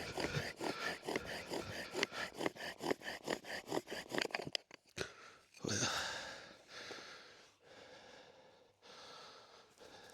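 Bow drill spindle being sawed back and forth fast against the fireboard, about four to five strokes a second, working up an ember; the strokes stop about four and a half seconds in, followed by hard breathing.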